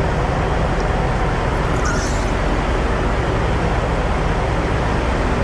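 Steady, even rumble of vehicle and engine noise at a truck-stop fuel island, with a brief faint higher hiss about two seconds in.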